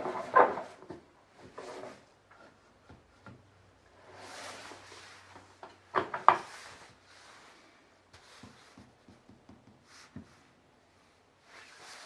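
Wooden knocks and rubbing from work on a Japanese hand plane (kanna). There is a sharp knock just after the start, a soft scraping sweep around four seconds in, then two sharp knocks in quick succession about six seconds in, with lighter handling taps after.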